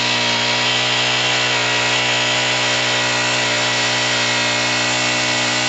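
Small engine of a gas-powered portable winch running steadily at constant high speed, one even pitch throughout.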